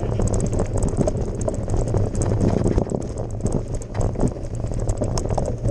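Mountain bike rattling and clattering over a gravel forest road at speed, with dense irregular knocks from the frame and tyres over a steady low rumble.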